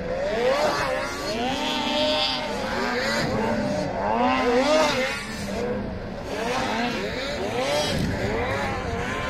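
Several racing snowmobile engines revving up and easing off again and again, their pitches rising and falling over one another.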